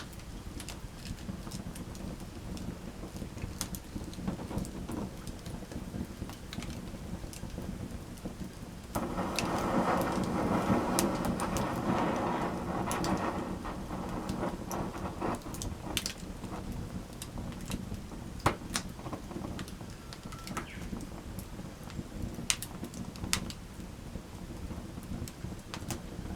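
Wood campfire burning: a steady low rush of flames with scattered sharp crackles and pops. About nine seconds in the rushing swells louder for around five seconds, then settles back.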